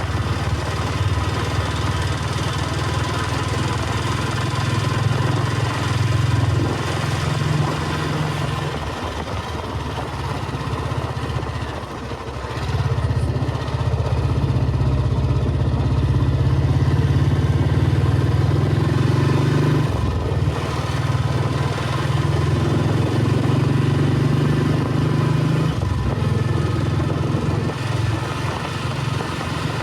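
Royal Enfield Bullet 350 Electra's cast-iron single-cylinder engine thumping steadily while the motorcycle is ridden up a hill road. The engine note eases off briefly three times, before rising again.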